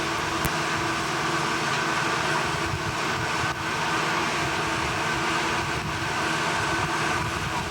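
Steady mechanical din of heavy machinery running, with a steady low hum and a higher steady tone under it.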